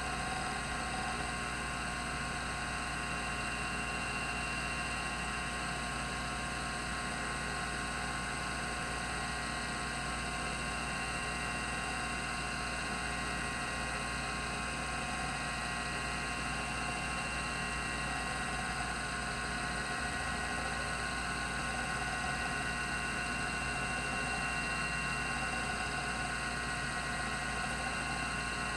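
Rodime RO352 3.5-inch hard drive spinning at speed, its 3600 RPM spindle motor and two platters giving a steady whine and hum with several fixed tones, with no seek clicks.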